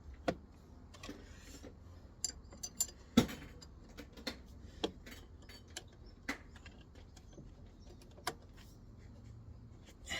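Irregular metallic clinks and knocks of hand tools and a bolt being fitted into the engine's belt-drive parts, with one louder knock about three seconds in.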